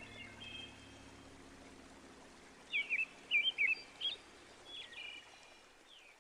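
Small songbirds chirping, with a quick run of sharp, gliding chirps about three seconds in and a few more near the end, over a faint low hum that fades out in the first couple of seconds.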